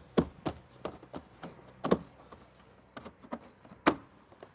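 Car engine-bay parts being fitted back in place by hand: a few separate sharp clicks and knocks, the loudest about two seconds in and again near the end.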